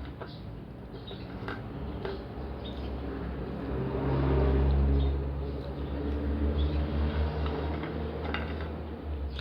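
Close-up eating sounds: chewing and mouth noises with scattered small clicks, swelling louder about four to five seconds in.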